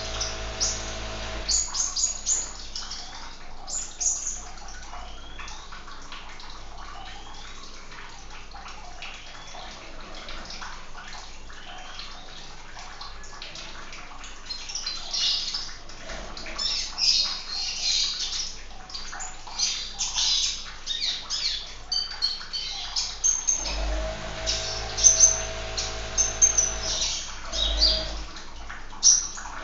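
Sunbird (kolibri) chirping in many quick, high, sharp notes over a steady sound of running water, livelier in the second half.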